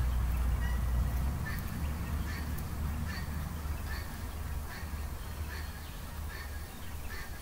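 A bird calling over and over in short, pitched calls, roughly two a second, over a low rumble.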